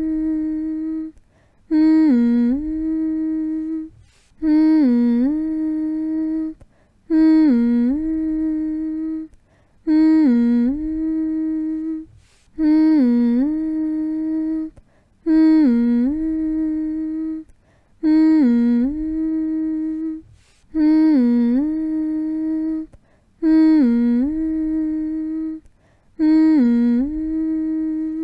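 A voice humming the same short phrase over and over, about ten times, as a soothing sound for putting a baby to sleep. Each hum lasts about two and a half seconds: it dips in pitch at the start, rises back and holds a steady note, then breaks off for a brief pause.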